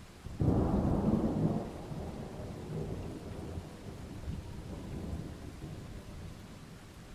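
Thunder: a sudden clap about half a second in, then a low rumble that fades slowly over several seconds, over steady rain.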